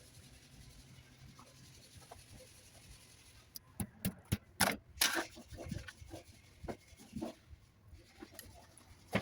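Faint steady hiss, then a cluster of sharp clicks and knocks starting about three and a half seconds in, with a few more scattered ones after.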